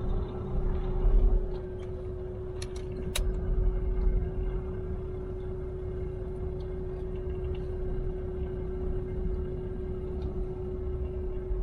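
Truck engine running at low speed, heard from inside the cab: a steady low rumble with a constant hum above it, and a couple of light clicks about three seconds in.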